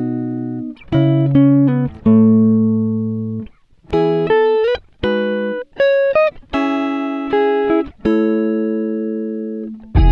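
Background music: plucked guitar notes and chords, each ringing out and fading before the next.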